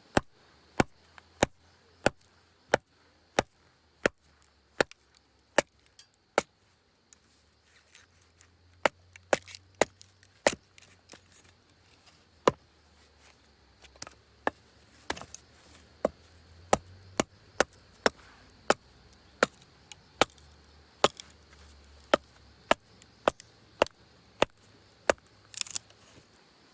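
Wood being chopped: a long run of sharp, separate chopping strikes, about one every half to two-thirds of a second, with a couple of short pauses.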